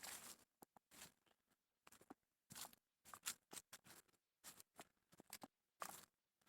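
Faint crunching footsteps on a trail, one step about every three-quarters of a second.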